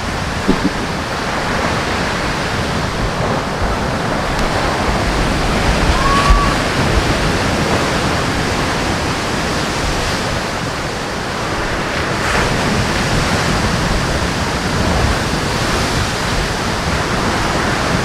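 Steady rushing of sea surf mixed with wind buffeting the microphone, with a brief faint chirp about six seconds in.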